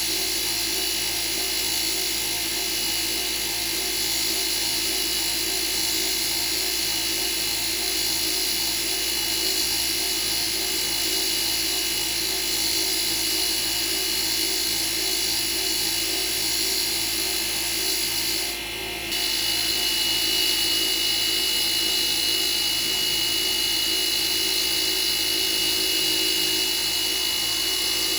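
Electric power tool running steadily, a high whine over hiss. It breaks off briefly about nineteen seconds in, then runs on with a slightly higher, stronger tone.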